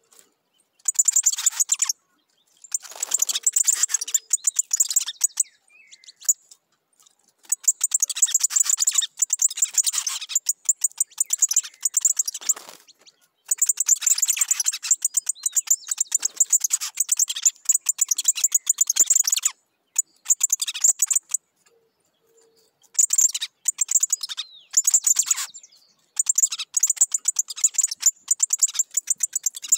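Picahueso (golden-billed saltator) singing in repeated bouts of rapid, high-pitched chattering notes, each bout a few seconds long, with short pauses between them.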